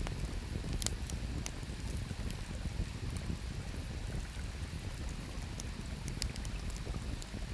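Wood campfire crackling, with scattered sharp pops, over a steady low rumble of river water and wind.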